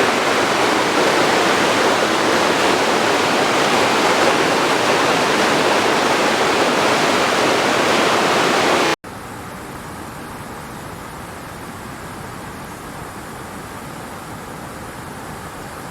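Waterfall, a loud, steady rush of falling water. About nine seconds in it cuts off abruptly and gives way to a quieter, duller steady rush.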